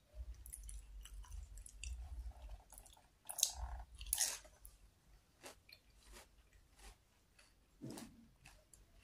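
Close-up chewing and biting of batagor, fried fish dumplings and tofu in peanut sauce, with a louder bite from a spoonful about three to four seconds in. Sharp clicks follow through the second half, as the metal spoon meets the plate.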